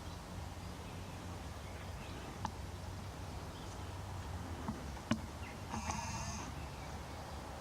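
Fallow deer giving one short bleat about six seconds in, over a steady low hum, with two sharp clicks before it.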